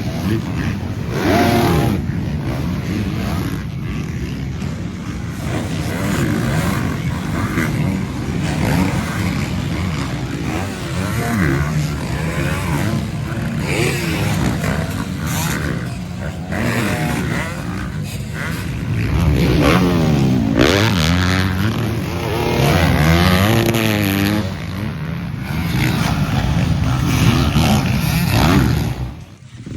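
Motocross bike engines running and revving, pitch rising and falling again and again, with the busiest revving about two-thirds of the way through.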